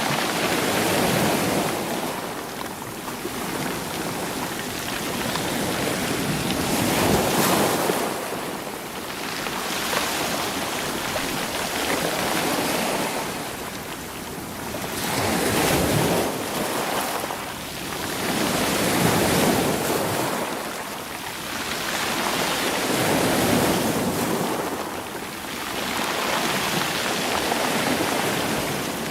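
Sea waves washing in over rocks and rolling stones, the surf swelling and ebbing every few seconds.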